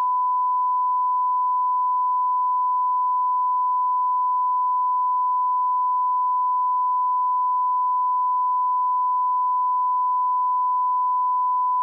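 Steady, continuous 1 kHz sine-wave line-up tone at −18 dB, a single unchanging pitch used as an audio alignment reference level.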